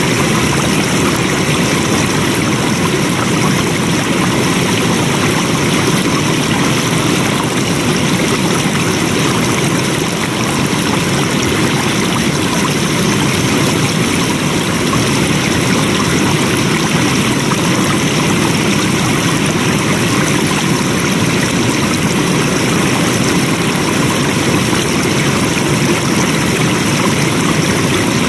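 Flowing water: a stream rushing steadily without a break.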